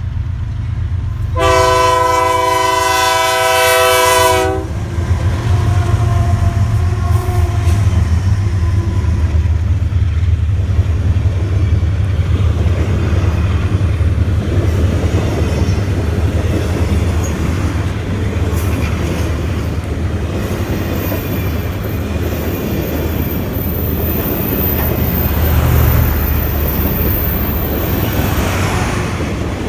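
BNSF GE C44-9W diesel locomotive's horn sounds one blast of about three seconds near the start, then the locomotive's engine and the train's wheels rumble steadily past with clickety-clack from the rail joints.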